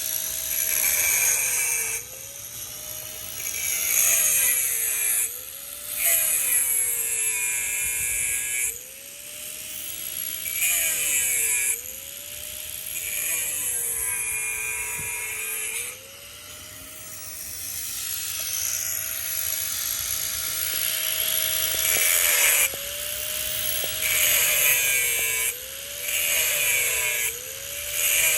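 Power saw cutting steel rebar in repeated cuts of one to three seconds: a harsh high-pitched grinding over the motor's whine, which drops in pitch as each cut loads it and climbs back between cuts. The cutting pauses for a few seconds in the middle.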